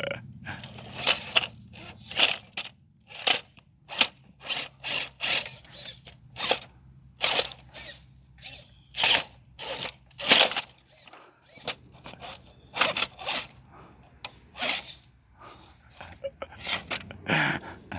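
Axial SCX10 II RC rock crawler climbing over rocks: irregular crunching and scraping of tyres and chassis on stone, about one to two a second, over a faint steady hum from the electric motor and gears.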